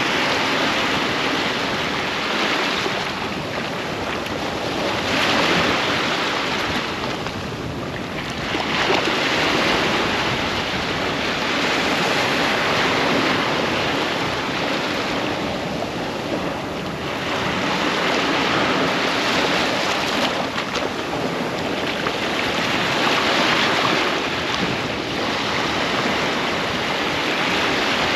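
Ocean surf breaking and washing up on a beach, swelling and easing every few seconds as each wave comes in.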